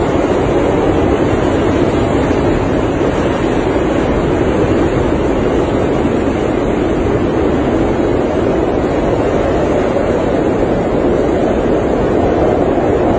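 Blizzard wind blowing as a steady, even rush of noise, with no gusts or breaks.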